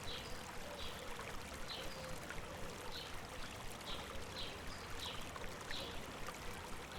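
A river babbling over rocks, with a bird repeating a short high chirp about once a second.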